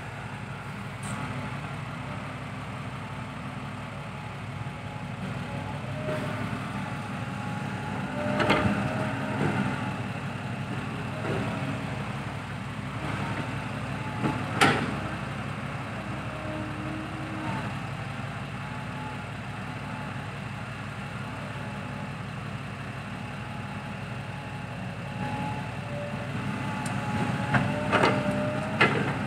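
Diesel dump-truck engines running steadily, with a few sharp knocks about eight, fifteen and twenty-eight seconds in.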